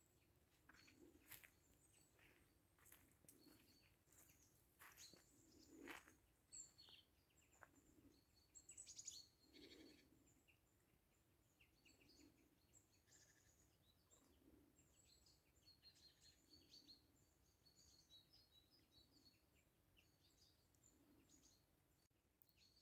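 Near silence: faint outdoor ambience with scattered small bird chirps and a few light clicks, mostly in the first half.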